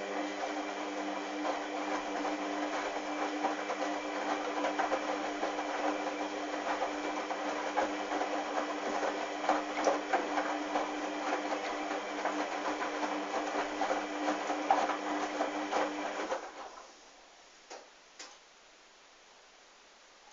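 Hoover washing machine running mid-wash: a steady hum with a dense rattle and crackle over it. It stops about three quarters of the way through, and two short clicks follow.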